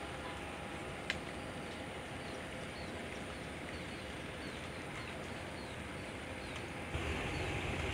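Steady outdoor background noise with a bird repeating short, high, falling chirps about twice a second, and a single sharp click about a second in. Near the end a louder low rumble sets in suddenly.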